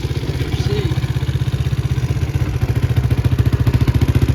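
Small single-cylinder quad engine of a 2011 Can-Am DS90 idling steadily with a fast, even putter. It gets a little louder about half a second in and again near the middle. The owner puts its running down to a fuel delivery problem.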